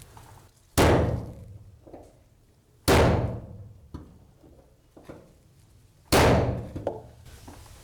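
Three hammer blows on a pointed screw held as a punch against trapezoidal sheet-metal roofing from below, each one ringing out in the metal: punch-marking points through the sheet.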